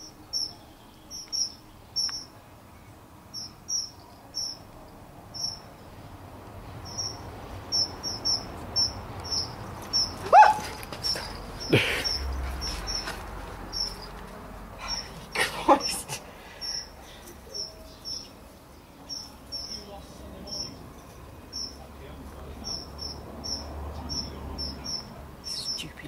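A small bird, a fledgling caught by a cat, squeaking over and over in short high peeps, about one to two a second: its distress cries. A few louder brief sounds come about ten seconds in and again near sixteen seconds, one of them sliding up and then down in pitch.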